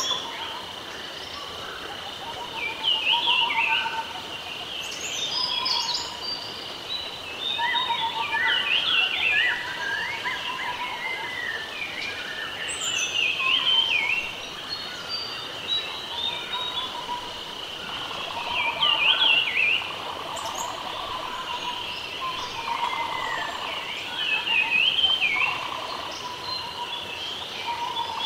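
Birds chirping and trilling, many short calls throughout, over a steady high drone.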